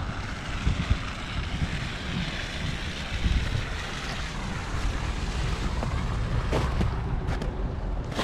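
Wind buffeting the microphone, with a steady rushing hiss and uneven low rumbling.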